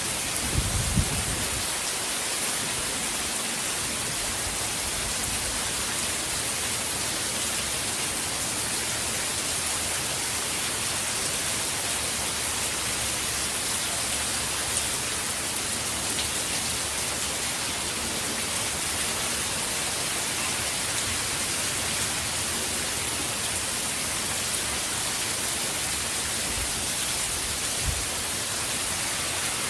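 Heavy hurricane rain falling in a steady, even downpour, with a couple of brief low thumps, one about a second in and one near the end.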